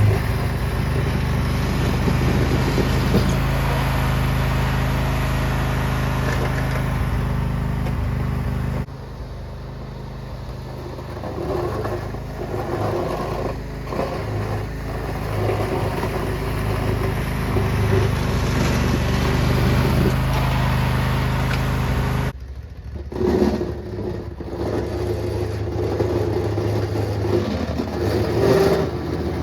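Lawn tractor engine running steadily, pushing a snow plow. The sound changes abruptly twice, about nine seconds in and about twenty-two seconds in.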